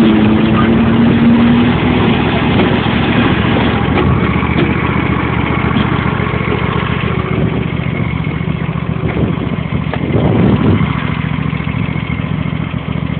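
John Deere L111 lawn tractor's 20 hp Briggs & Stratton V-twin engine running steadily while the tractor is driven.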